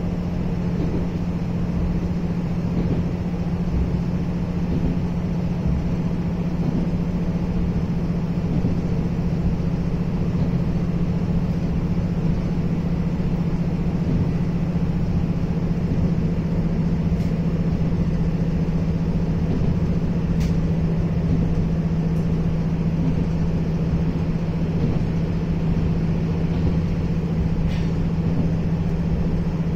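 Interior running noise of a passenger train carriage: a steady rumble with a constant low hum, and a few faint clicks in the second half.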